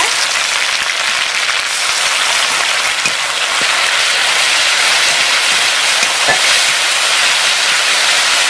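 Wet ground spice paste sizzling loudly and steadily in hot oil with fried onions in an iron kadai, stirred with a steel spatula.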